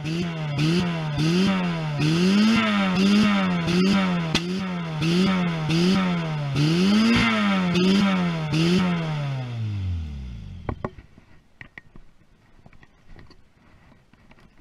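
Citroën AX engine revved hard and steadily up and down, its pitch rising and falling about every three-quarters of a second, then cutting out and winding down to a stop about ten seconds in. A few faint ticks and clicks follow.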